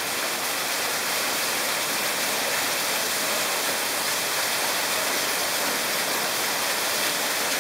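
Waterfall rushing steadily, an even, continuous wash of falling water.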